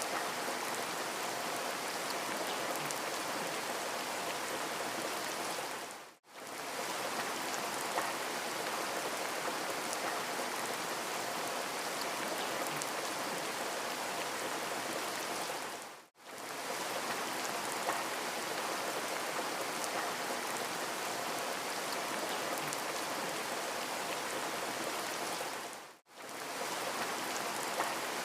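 Steady rain ambience, an even hiss of falling rain. It fades out sharply to near silence and straight back in three times, about every ten seconds, as the recording loops.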